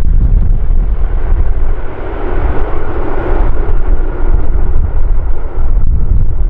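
Strong gusting wind buffeting the microphone with a heavy rumble, over the rushing engine noise of a jet airliner that swells a couple of seconds in.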